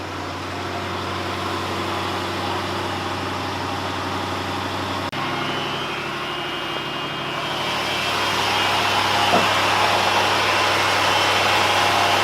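1960 Ford Thunderbird's 352 V8 idling steadily, getting a little louder in the second half.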